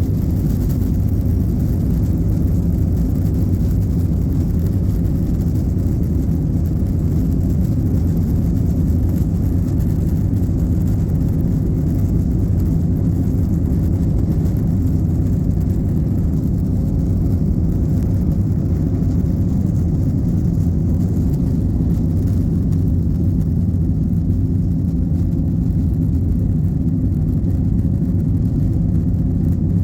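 Airbus airliner's jet engines and airflow heard as a steady low cabin rumble, with no rise or fall in level.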